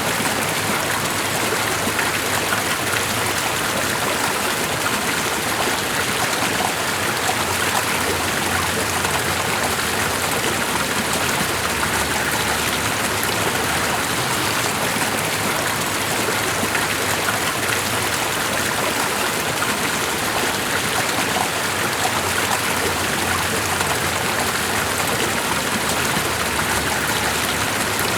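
Steady, unbroken rushing of running water, even in level throughout.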